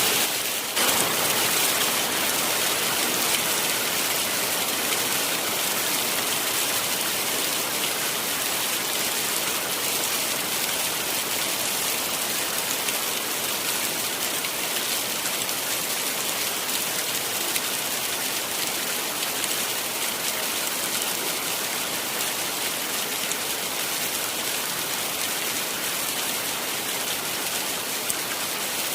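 Heavy rain falling steadily, a dense, even hiss of drops with no let-up; the level dips briefly just under a second in.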